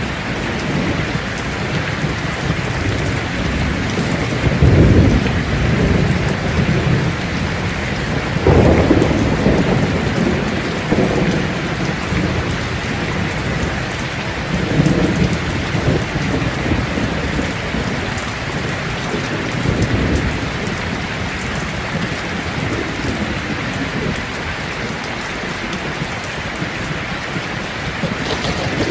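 Steady rain with several low rolls of thunder that swell and fade.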